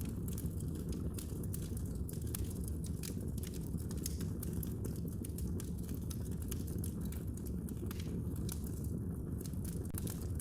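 Wood fire burning in a fireplace, with steady rapid, irregular crackles and pops over a low rumble of the flames.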